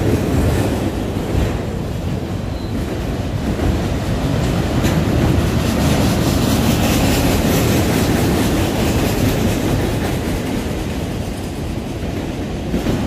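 Freight train of enclosed autorack cars rolling past close by: a steady rumble of steel wheels running on the rails.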